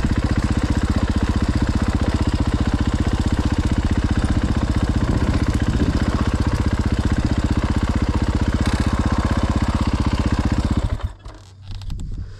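Dirt bike engine running steadily close by, a fast even thumping pulse with no big revs, until it stops abruptly about eleven seconds in.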